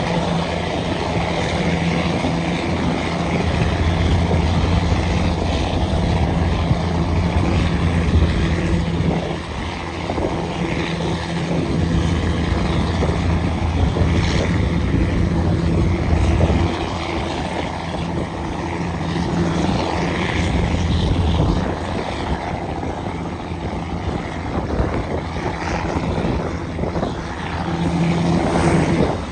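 Caterpillar 6NZ inline-six diesel in a loaded Kenworth W900L running under load with a steady drone. It drops back in level three times, at about a third, just past half and three quarters of the way through.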